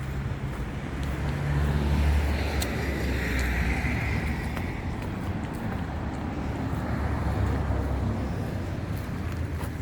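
A car driving past on the street, its engine and tyre noise swelling and fading around the middle, over a steady low rumble.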